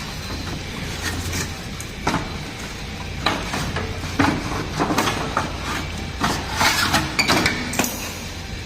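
Hand tools and metal parts clinking and knocking irregularly in a car's engine bay, from work to remove the cooling fan and alternator. A steady low hum runs underneath.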